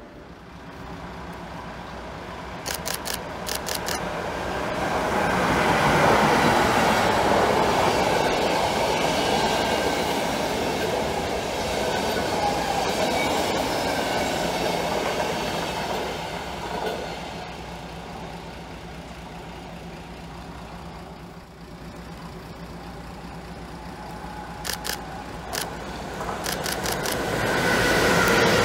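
A České dráhy passenger train, hauled by a Class 193 Vectron electric locomotive, running past on the station track: a broad rumble of wheels on rail that builds and then eases. There are two bursts of rapid clicking from the wheels crossing rail joints, one about three seconds in and one near the end.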